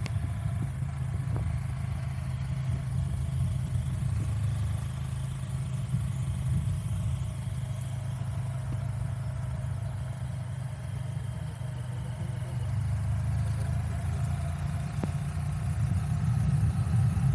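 A motor vehicle engine running steadily, getting louder over the last few seconds.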